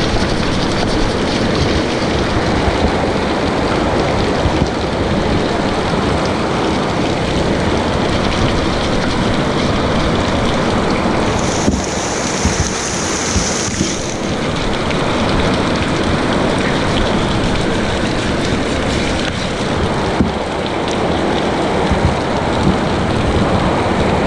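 Heavy rain pouring steadily, with a brief higher hiss about halfway through.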